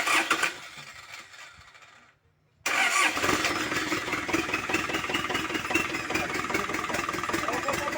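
Freshly overhauled Hino 130 HD diesel engine being started. A first loud attempt fades away over about two seconds, then a little under three seconds in the engine catches and runs steadily with a dense diesel clatter.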